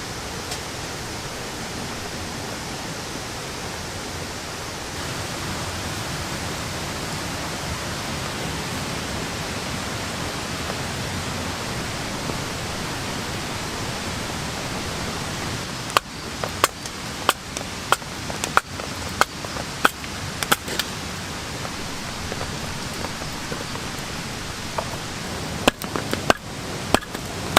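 Steady rain hiss. Partway through, a quick irregular run of sharp taps and clicks begins, and a few more come near the end.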